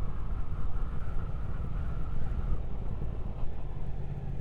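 Motorcycle engine running on the move, a Triumph Speed Twin 1200 parallel twin, under a rumble of wind noise. About three seconds in, the engine note settles into a steady low hum.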